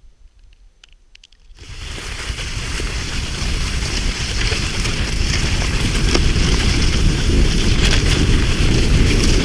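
A few faint clicks, then about one and a half seconds in a loud, rushing wind noise on the microphone starts suddenly. It grows louder and keeps up, with a low rumble.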